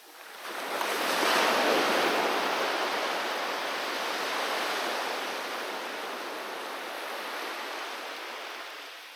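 A sea wave breaking on the beach: the rush of surf swells up about half a second in, peaks a second later, then slowly washes out and fades near the end.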